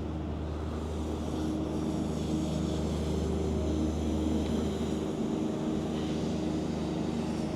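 Steady low drone of a motor vehicle's engine, with a few held low tones. Its deepest part eases off about five seconds in.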